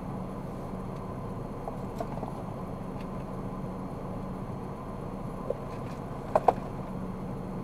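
Steady road and engine noise of a car driving, heard inside the cabin, with a low hum. A few faint ticks, and two sharp clicks in quick succession about six seconds in.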